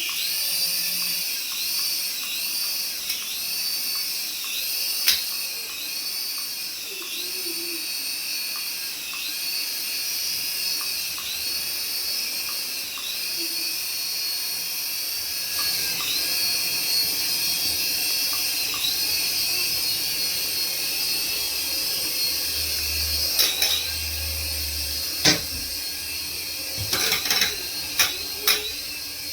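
Small electric motor of a battery-powered radio-control toy running with a steady high-pitched whine that wavers at a regular beat, with a few sharp knocks and clicks near the end.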